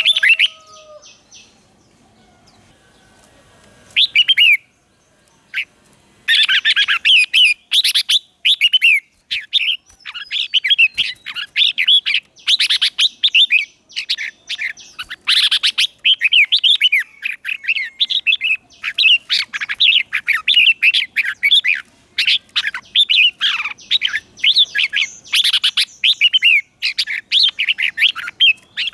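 Red-whiskered bulbul singing. After a short phrase about four seconds in, from about six seconds it pours out a fast, almost unbroken run of quick warbling, chattering phrases.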